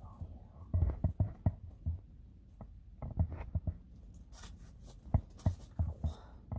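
Irregular soft thumps and taps as a freshly caught yellow perch is handled and unhooked.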